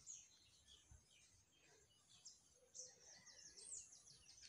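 Near silence with faint birds chirping: scattered short, high chirps, becoming a quick run of them in the second half.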